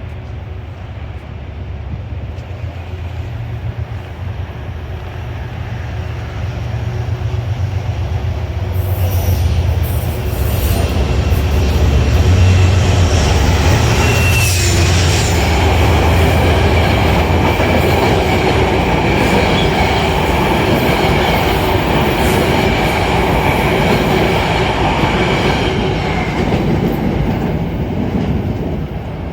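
A Metro-North train passes through the station. It grows louder over the first several seconds, runs loudly past with rail noise and a faint high wheel squeal, then fades near the end. Gusty wind rumbles low on the microphone throughout.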